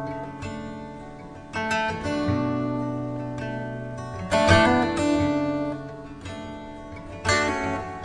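Background music: acoustic guitar strummed in slow chords, each left to ring and fade before the next.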